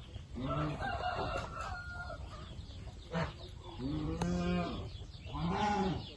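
Chickens calling: three drawn-out calls, each rising and falling in pitch.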